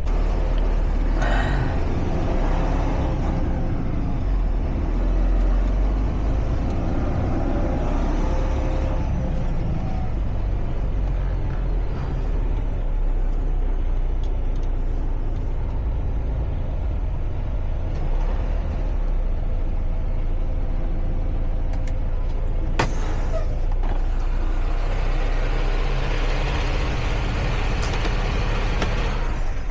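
Semi-truck diesel engine running at low speed, heard from inside the cab as a steady low rumble, with a sharp click about 23 seconds in.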